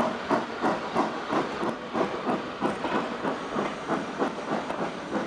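Steam locomotive working, its exhaust chuffing in a steady, even rhythm of about three beats a second with a hiss of steam.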